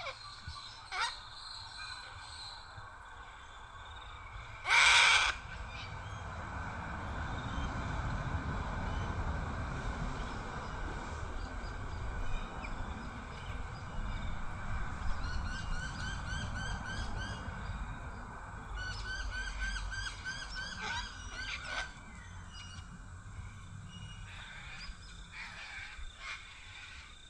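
Wild birds calling outdoors: one loud, harsh call about five seconds in, and later two runs of quick, rapidly repeated chirps, about five a second.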